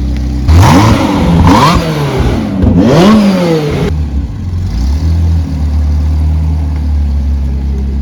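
Zenvo TSR-S hypercar's V8 engine idling, then revved hard three times in quick succession, pitch rising and falling with each blip, before settling back to a steady idle about four seconds in.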